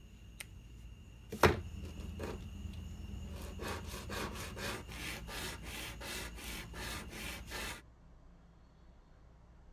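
A sharp knock, then a fast, even run of rasping strokes, about four to five a second, like rubbing or sawing, that stops suddenly.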